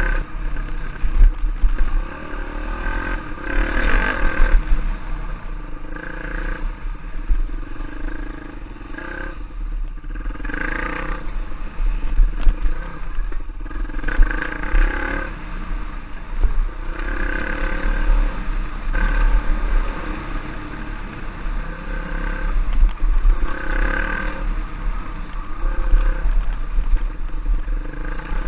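Trail bike engine running as it is ridden, rising and falling in pitch again and again with the throttle, over a constant heavy low rumble.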